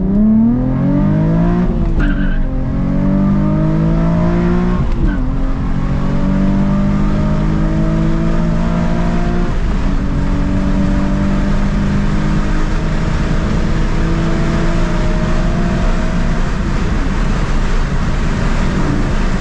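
2007 Nissan 350Z HR's VQ35HR V6 through a Megan Racing drift-spec exhaust, accelerating hard through the gears. The engine note rises steeply and drops at upshifts about two and five seconds in, then climbs slowly in a higher gear and eases off near the end.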